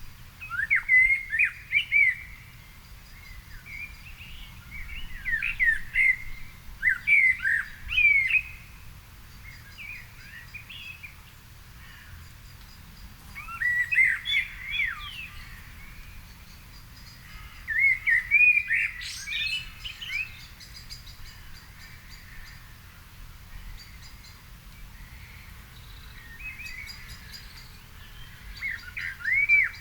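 Evening birdsong: a nearby songbird sings short warbling phrases of quickly rising and falling notes every few seconds, while other birds chirp faintly in the background.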